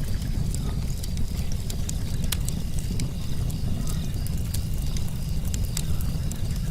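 Wood fire crackling with scattered sharp pops over a steady low rumble. Frogs call in a quick pulsing chorus, a few calls a second, and insects trill steadily behind them.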